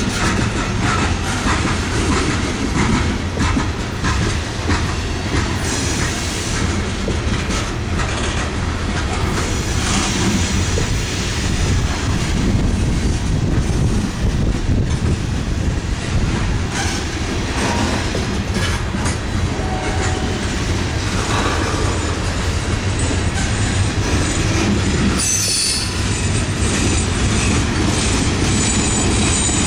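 Freight train of steel coal hopper cars rolling past at close range: a steady loud rumble of wheels on rail with clacking over the joints and now and then a brief wheel squeal.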